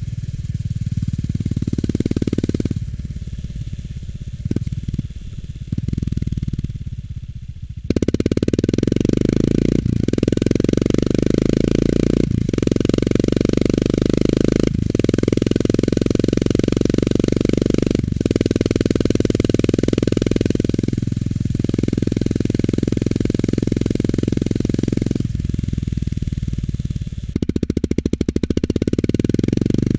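Honda GB350 S's air-cooled single-cylinder engine running through its stock muffler while being ridden. It is quieter and uneven for the first several seconds, then about eight seconds in it goes to steady hard pulling, broken by several brief dips that sound like gear changes. Near the end it eases off into slow separate exhaust pulses.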